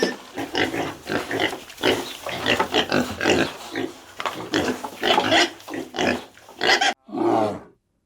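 Pigs grunting and squealing in a rapid, overlapping run of short calls; near the end the sound cuts off abruptly and one longer, lower call follows.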